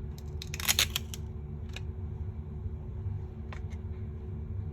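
Small plastic and metal phone parts being handled and set down on a workbench: a quick run of sharp clicks and taps about a second in, then a few single clicks, over a steady low hum.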